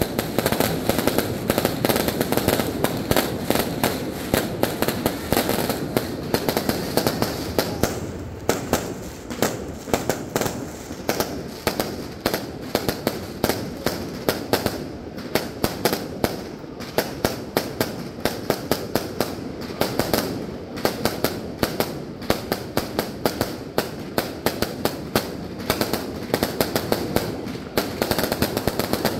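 Fireworks display: a dense, continuous crackle of rapid bangs, thickest for the first several seconds and then a steady fast string of sharp reports.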